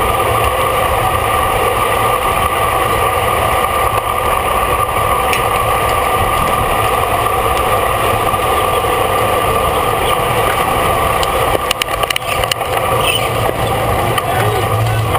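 Steady wind and road noise rushing over a bicycle-mounted camera's microphone while riding at race speed, with a short run of clicks about twelve seconds in.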